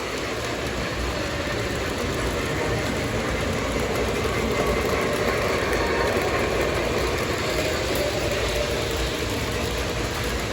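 O gauge model trains running on the layout: a steady rumble of wheels on three-rail track with the whir of their motors and gearing.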